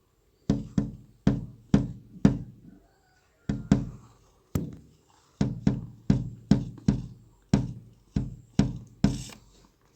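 A series of about twenty sharp, drum-like knocks, each ringing briefly, in irregular groups with a short pause about three seconds in.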